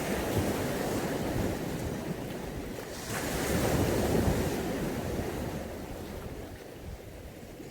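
Mediterranean Sea waves breaking and washing on the shore as a steady rushing surf. One wave swells about three seconds in, then the wash eases off toward the end.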